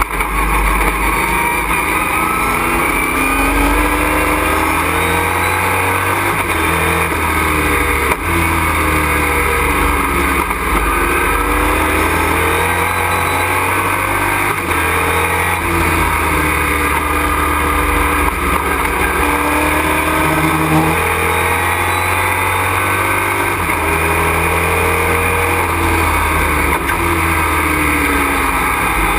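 Race truck engine heard from inside the cockpit at racing speed, its pitch climbing again and again and breaking off at each gear change or lift of the throttle, over steady wind and road noise.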